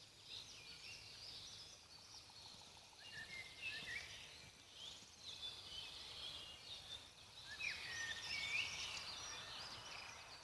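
Birds chirping and singing in a forest, many short quick calls overlapping, busiest about a third of the way in and again near the end, over a faint low background hiss.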